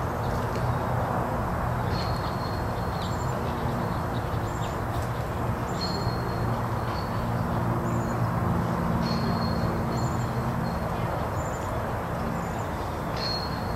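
Steady outdoor background noise with a low hum, and small birds chirping: short high notes that repeat every second or two.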